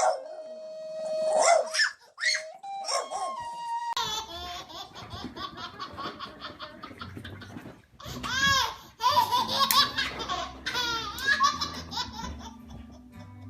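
A dog howls in long held, wavering notes for the first few seconds. After a sudden cut, a baby laughs in a string of high squeals from about eight seconds in.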